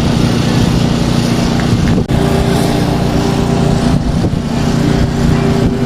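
A car engine running, a loud, steady low sound with a few held tones.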